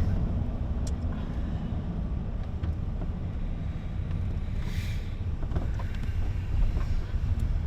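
Steady low rumble of background noise, with a brief hiss about five seconds in.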